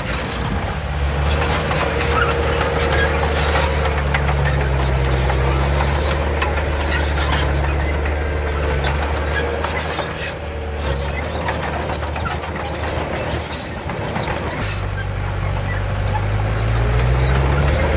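Komatsu D31 bulldozer at work: its diesel engine running under load, its speed falling and rising and climbing near the end, with squealing and clanking from the steel tracks.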